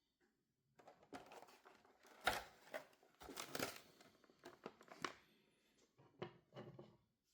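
Action figure packaging being handled and opened: plastic and cardboard crinkling and rustling in irregular spells, with a few short sharp crackles near the end.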